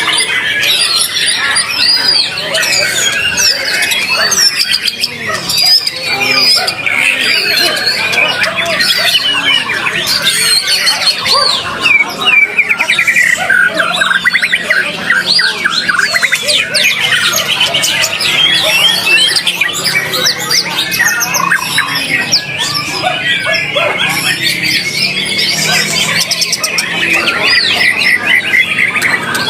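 White-rumped shama (murai batu) singing continuously: a fast, varied stream of whistles, trills and chattering notes with no pauses.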